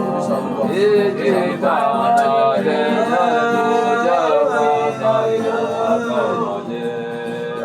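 Male voice singing long, sliding wordless notes in spontaneous gospel worship over a sustained keyboard pad.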